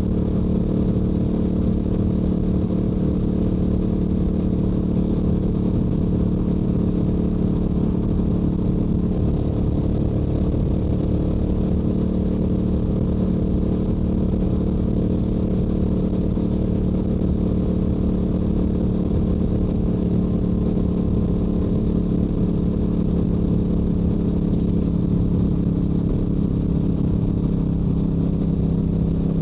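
Stock exhaust of a Yamaha YZF-R7's 689 cc parallel-twin engine running steadily at highway cruising speed, with wind rush over the microphone.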